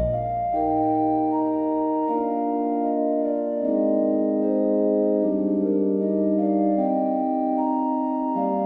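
Slow instrumental keyboard music in a sustained organ-like sound, held chords changing every second or so. A deep bass note fades out about two seconds in.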